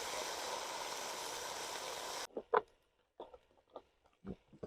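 Steady sizzling hiss of liquid cooking in a hot Dutch oven, cutting off abruptly a little over halfway through. It is followed by a few short, sharp clicks and knocks.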